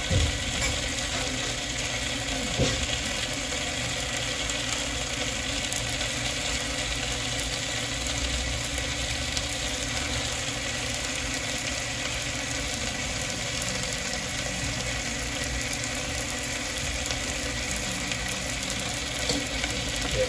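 Crab pieces, peppers and seasoning frying in a hot wok: a steady crackling sizzle, with a couple of light knocks near the start.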